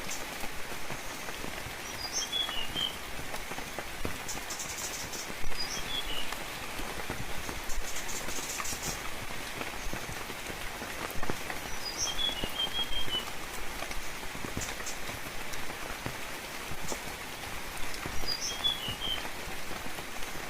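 Steady gentle rainfall pattering on foliage, with a bird giving short high chirps about every six seconds.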